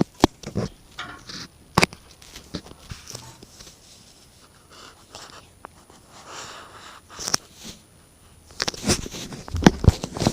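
Irregular scratching, tapping and rustling from inside a chimney, of unexplained origin, with a few sharper knocks and a busier stretch near the end.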